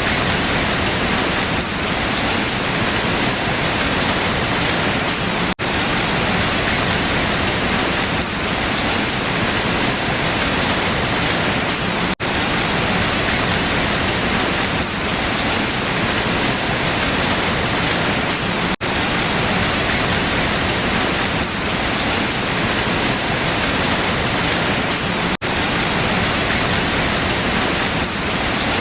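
Steady rain falling through leaves, an even patter across the whole range. It drops out for an instant four times, about every six and a half seconds.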